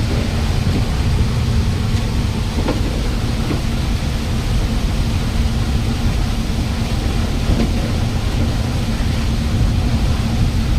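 Volvo bus driving through heavy rain: a steady low rumble of engine and tyres with a steady hum, under the hiss of rain.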